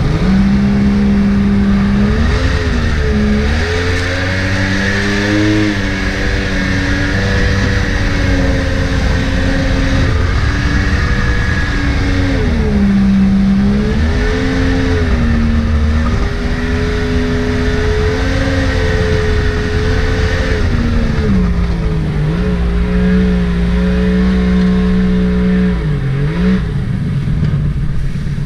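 Mini jet boat's Yamaha 1100 watercraft engine running under throttle, its pitch rising, holding and falling several times as the throttle is worked, with a steady rush of water and spray underneath.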